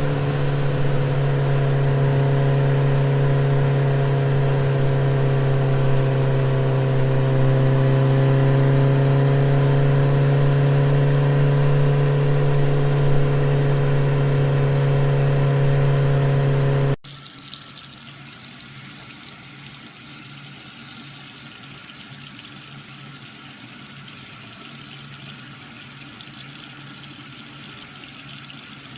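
A small motor running with a steady, loud hum. About two-thirds of the way in it cuts off abruptly, and a quieter sound of running water follows.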